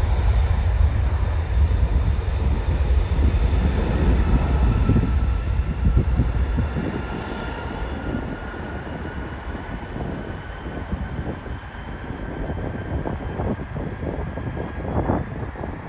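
Jet airliner's engines going past: a deep rumble that drops away about six seconds in, leaving a turbine whine that slowly falls in pitch. Wind buffets the microphone throughout.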